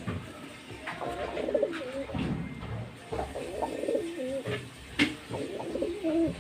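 Racing pigeons cooing, a run of warbling coos from about a second in, with a sharp click about five seconds in.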